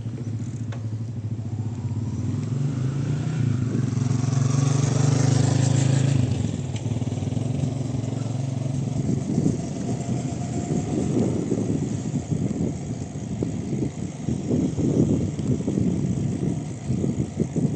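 A motor vehicle's engine hum grows louder and passes, loudest about five seconds in, then fades into irregular low rumbling and buffeting.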